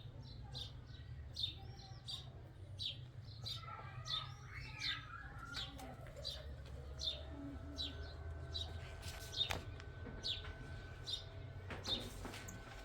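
Bird chirping in short high calls about once a second, over a low steady hum; a steady tone comes in about halfway through.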